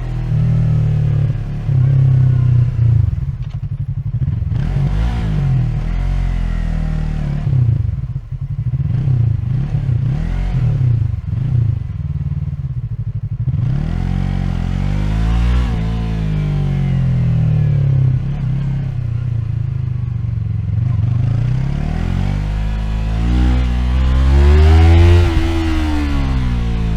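Yamaha MT-03's 321 cc parallel-twin engine, heard close up, revving and easing off again and again. Quick short blips give way to two longer pulls, one about halfway through and a louder one near the end, each falling away afterwards.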